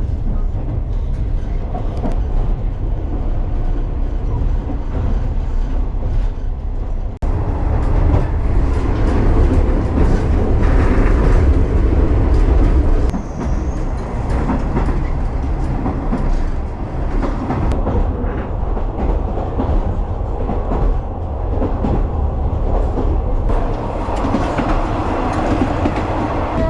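Yufuin-no-mori diesel sightseeing train running along the line: a steady, deep rumble of the railcar and its wheels on the rails. It breaks off suddenly about a quarter of the way in and comes back louder for a few seconds.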